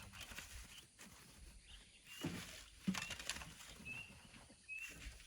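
A bird repeating a short rising chirp about once a second, with scraping and rustling noises, loudest about halfway through.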